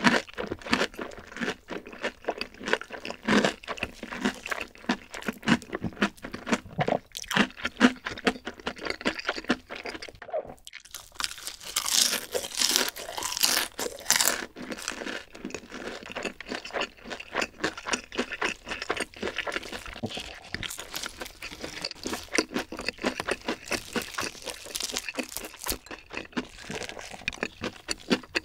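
Close-miked crunching and chewing of crispy fried chicken, the batter crackling with each bite and chew. There is a short pause about ten seconds in, and a run of especially crisp crunches a couple of seconds later.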